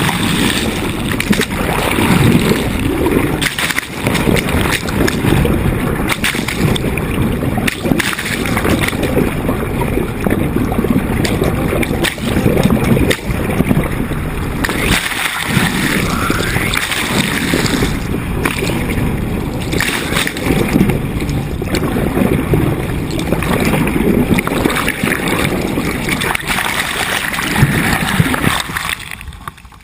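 Water rushing and splashing along the hull of a sailboat under way, with a loud low rumble and frequent short knocks.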